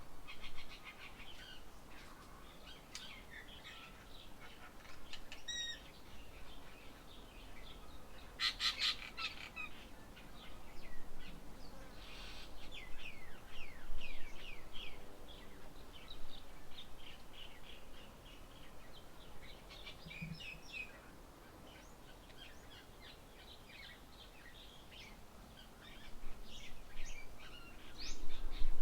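Several birds chirping and calling, a busy run of short, high chirps and quick falling notes. A louder, harsher burst comes about eight seconds in.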